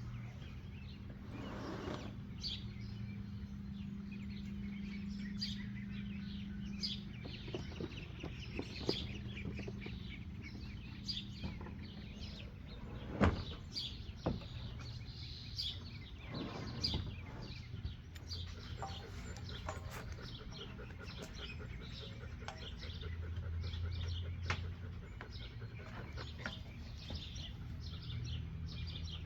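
Young birds chirping over and over in short high peeps, with a steady low hum underneath and one sharp knock about thirteen seconds in.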